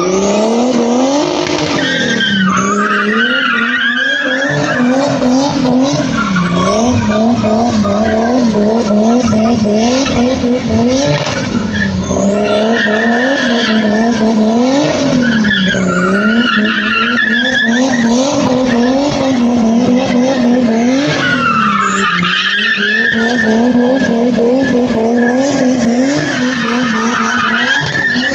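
A car drifting: the engine held high in the revs, its pitch rising and falling again and again with the throttle, over continuous tyre squeal.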